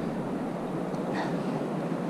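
Steady rush of wind and sea water around a kayak, with a faint brief knock about a second in.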